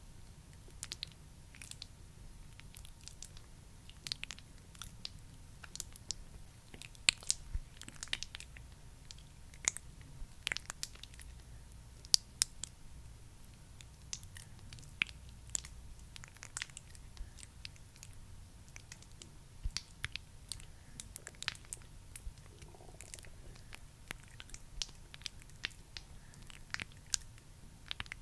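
Close-miked, irregular sticky clicks and crackles of skincare sound effects, such as a thick product like Vaseline or a cosmetic puff being worked, over a faint low hum.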